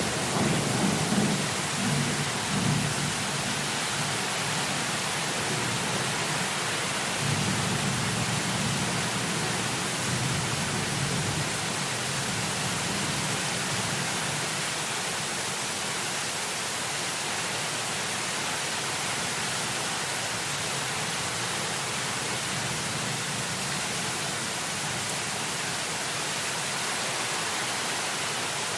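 Heavy rain pouring steadily with rolling thunder: a rumble fading away in the first few seconds, another swelling about seven seconds in and dying out a few seconds later, then only the steady rain.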